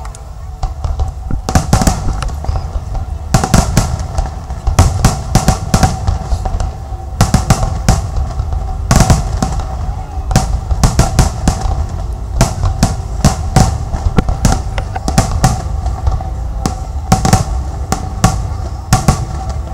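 Fireworks display: a rapid, continuous barrage of loud sharp bangs and crackles, several a second, over a low rumble.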